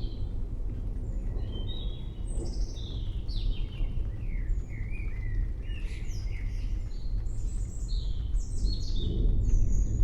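Several songbirds chirping and calling in quick overlapping phrases of short, high, downward-sliding notes, over a steady low rumble of background noise.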